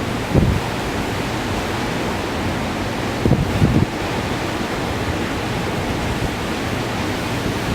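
Blizzard wind blowing hard and steadily, a constant rushing noise. Gusts buffet the microphone with low thumps about half a second in and again around three and a half seconds in.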